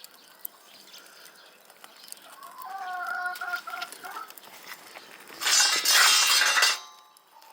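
A chicken calls once for about a second and a half, a drawn-out pitched cry, then a loud hiss of noise lasting over a second sounds near the end.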